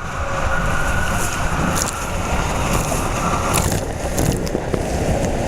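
Steady rushing and rumbling of a racing mat sliding fast down a water slide, with scattered knocks; a faint tone in the noise stops about three and a half seconds in.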